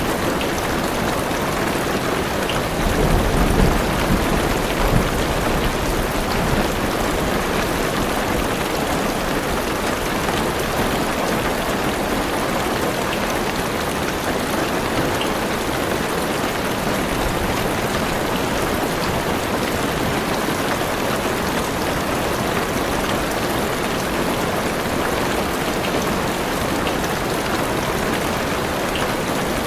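Heavy rain falling steadily on a car roof and windows, heard from inside the car, with a low thunder rumble about three to five seconds in.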